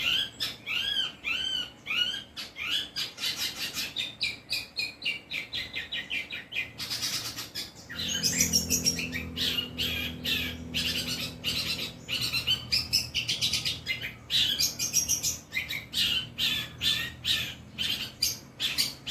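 Long-tailed shrike singing a varied song. It opens with a run of repeated arching notes, about two and a half a second, then breaks into fast chattering phrases and trills.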